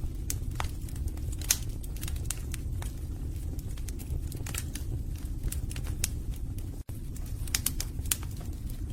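Wood fire burning in a fireplace: logs crackling with irregular sharp pops over a low steady rumble.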